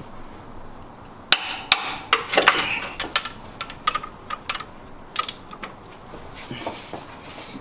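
Irregular sharp metallic clicks and knocks of hand tools working on a starter motor's seized mounting bolts, a dozen or so strikes, clustered about two seconds in and thinning out toward the end.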